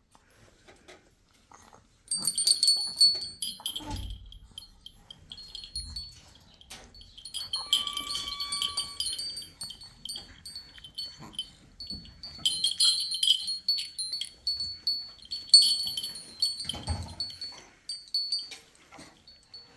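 Small metal bells jingling in four short bursts, with a thin ringing tone lingering between them.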